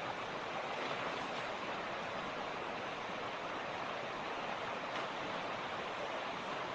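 A mountain creek rushing over rocks: a steady, even rush of water with no changes.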